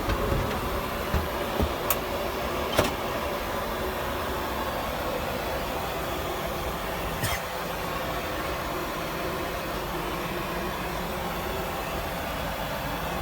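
Steady rushing drone of a Boeing 747-400 airliner in cruise, heard from inside the aircraft. A few sharp clicks and knocks come in the first three seconds and another about seven seconds in.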